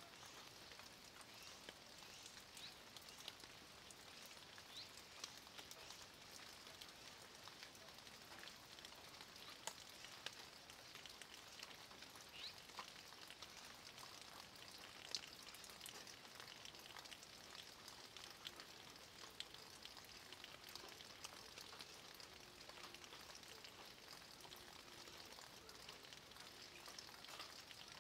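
Light rain falling on a stone wall and tree leaves: a faint, steady hiss with many small scattered drop ticks.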